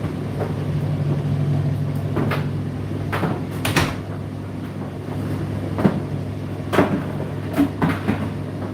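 Indesit IDC8T3 condenser tumble dryer running, its drum turning with a steady low motor hum and irregular knocks as the load tumbles inside the drum.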